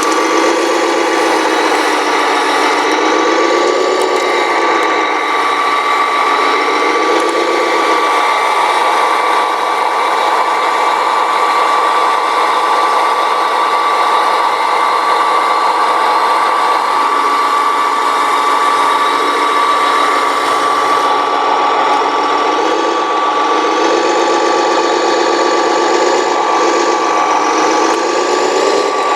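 Electric motors and gear trains of radio-controlled model construction machines whirring, with a steady high whine over a lower gear whir that rises and falls in pitch as the models are driven. The lower whir eases off about a quarter of the way in and comes back strongly near the end.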